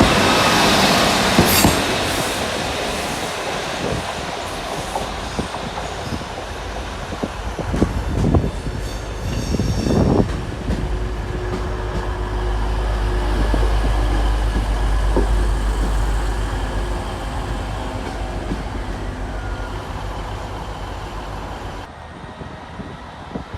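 A train moving on the rails, loud at first and fading, with a few low knocks about eight and ten seconds in and a deep rumble in the middle.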